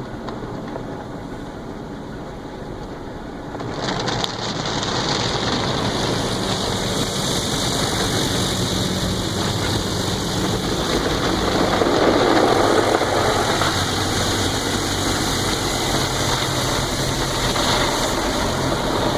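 Automatic car wash heard from inside the car's cabin: a steady rush of spraying water and wash machinery over the engine idling, growing louder about four seconds in.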